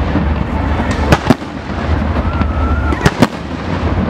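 Fireworks display: shells bursting with sharp bangs, two close together about a second in and two more about three seconds in, over continuous crackling.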